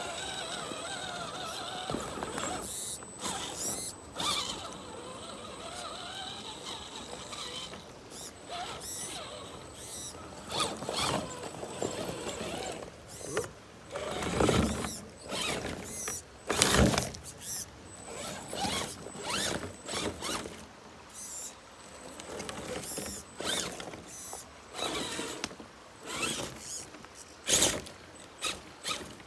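Electric RC rock crawler's motor and drivetrain running in short, irregular spurts, with creaks and clicks as it works over rocks.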